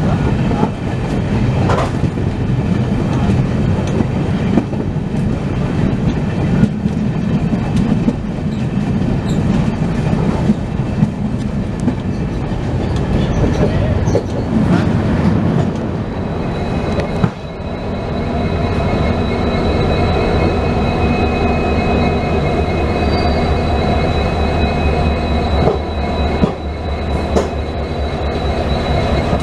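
Passenger train running at speed, heard from aboard: a steady rumble of the wheels with clicks over the rail joints. After a brief dip a little past halfway, a steady high-pitched wheel squeal joins the rumble and holds to the end.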